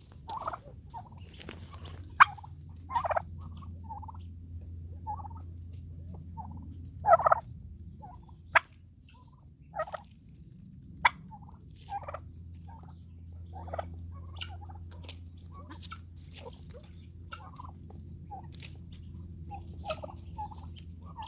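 Turkeys calling in many short, scattered calls, with a few sharp clicks among them.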